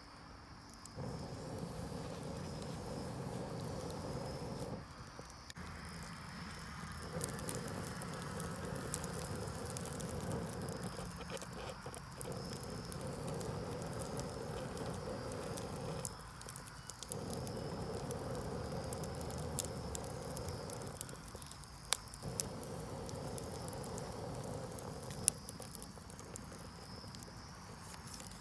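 Wood fire crackling under a barbecue grill, with many small irregular pops and snaps over a steady hiss.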